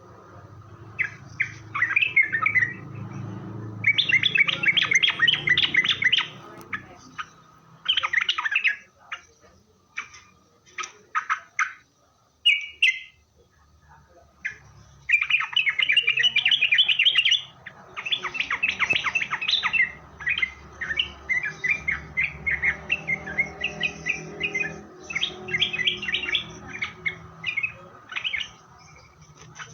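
Yellow-vented bulbul (trucukan) singing: phrases of rapid, chattering chirps, each about one to two seconds long, repeated with short gaps and scattered single notes between them.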